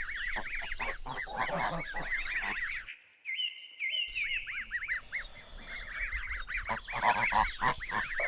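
A group of geese honking, many short calls overlapping in quick succession. The sound cuts out for about a second a third of the way in, then the honking resumes.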